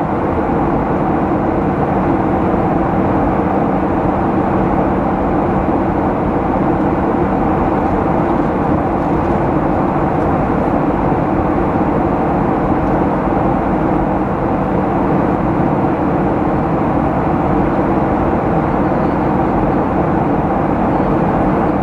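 Boeing 737-800 cabin noise: the steady drone of its CFM56-7B turbofan engines and airflow, with a constant low hum running under it.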